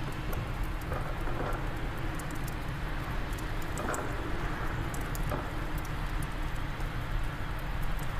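Wood fire crackling in a fireplace, with scattered sharp pops and ticks over a steady low rush of wind.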